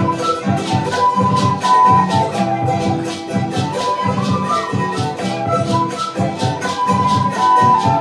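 Charango strummed in a fast, steady rhythm, several strokes a second, under a sustained melody line in an Andean folk tune.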